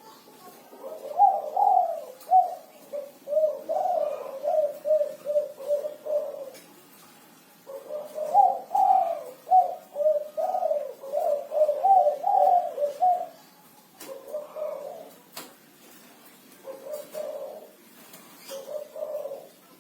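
Spotted dove of the 'kuku 6' call type cooing, singing strongly: two long runs of repeated coos lasting several seconds each, then three shorter coos.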